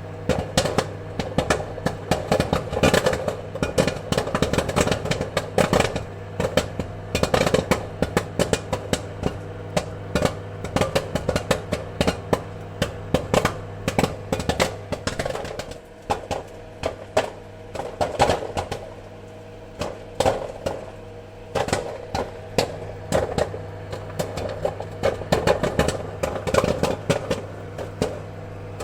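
Popcorn kernels popping in rapid, irregular cracks over a steady low hum, thinning out briefly about two-thirds of the way through before picking up again.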